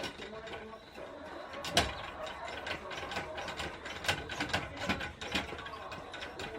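Wood fire crackling in a Solo Stove Campfire, with irregular sharp pops and snaps several times a second and one louder snap about two seconds in.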